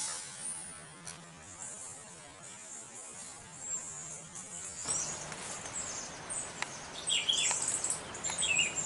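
Tropical tree-canopy ambience: a steady high insect buzz, with small birds chirping in quick short calls that pick up about seven seconds in.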